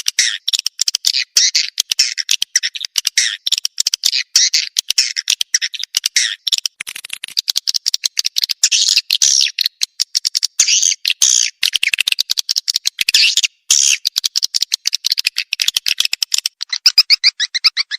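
Swiftlet calls: a dense, continuous chatter of rapid high chirps, a swiftlet lure recording of the kind played to call birds into a nest house.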